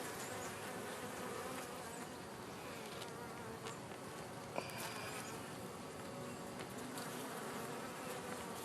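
Many honey bees buzzing steadily around an open hive.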